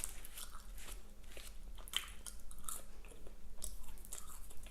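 A person chewing and biting food close to the microphone, with irregular soft crunches and wet mouth clicks.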